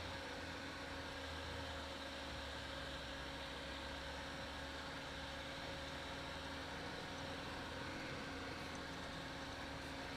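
Lada Niva (VAZ-2121) engine running steadily, a low even hum with a constant hiss of noise over it.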